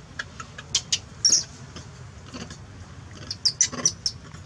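Baby monkey giving short, high-pitched squeaks and cries in two quick clusters, about a second in and again near the end: distress calls of a frightened infant.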